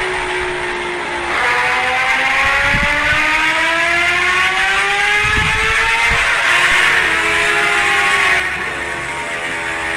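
Motorcycle engine pulling hard through the gears. Its pitch drops at a gear change about a second in, climbs steadily for several seconds, then drops again at another shift near the end, with short low rumbles of wind on the microphone.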